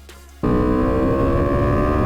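Motorcycle engine heard onboard on track, cutting in suddenly about half a second in and running hard at high revs, its pitch easing slowly down.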